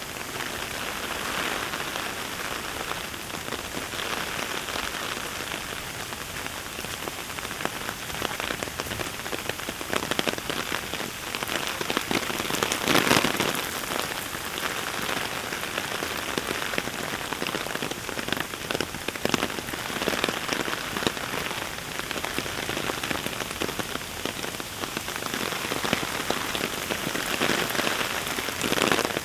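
Heavy rain falling steadily, a dense patter of drops on hard surfaces, swelling briefly louder about thirteen seconds in.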